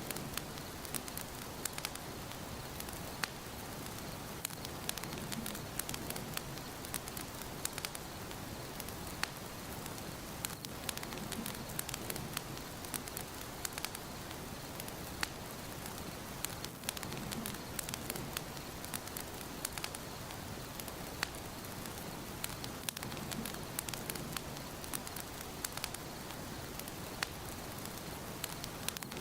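Wood fire burning in a fireplace: a steady hiss with frequent sharp crackles and pops, and soft low swells every few seconds.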